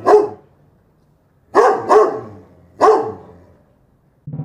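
A dog barking in short bursts: one bark at the start, two quick barks about a second and a half in, and one more bark about a second after that.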